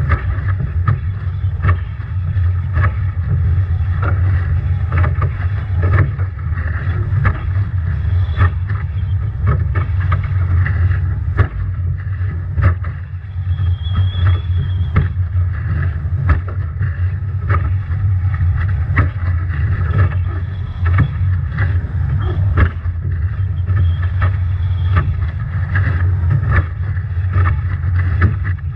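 Nacra 17 foiling catamaran sailing upwind in strong wind and heavy waves: a heavy wind rumble on the onboard microphone, with rushing water and frequent sharp slaps of waves and spray against the boat. A faint high whistle comes and goes.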